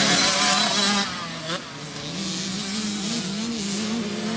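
KTM 65 single-cylinder two-stroke dirt bike engine being ridden, its revs rising and falling as the throttle is worked. It is loudest for the first second, drops off briefly, then picks up again. It is running with its power valve freshly repaired, said to sound much better.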